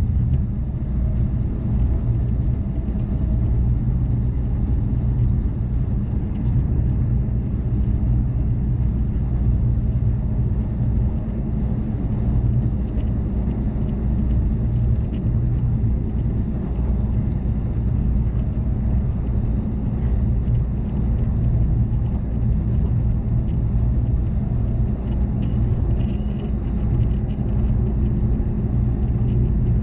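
Amtrak Cascades passenger train running at speed, heard from inside the coach as a steady low rumble that does not let up.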